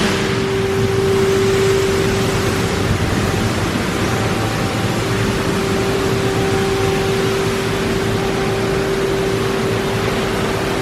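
Steady machinery noise: an even rushing sound with a constant low hum, the hum dropping out briefly about four seconds in.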